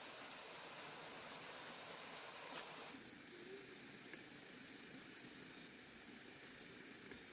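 Insects calling outdoors: a constant high insect hum, joined about three seconds in by one thin, very high, steady trill that breaks off briefly and starts again.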